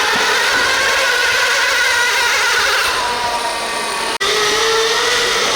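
RC pulling vehicle's motors whining steadily under load, with several high tones that waver in pitch. The sound drops out abruptly for an instant about four seconds in.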